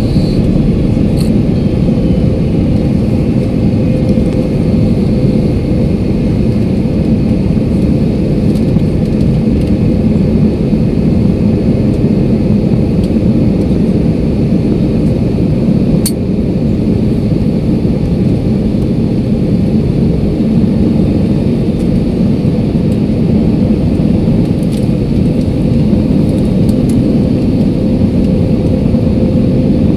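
Steady jet airliner cabin noise in flight: a constant low rush of engine and airflow with a faint steady hum, and a few light clicks.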